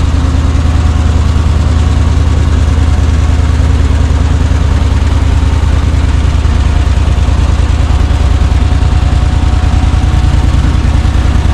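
Carbureted gasoline engine of a Chevrolet C60 wrecker truck idling steadily, a deep even rumble.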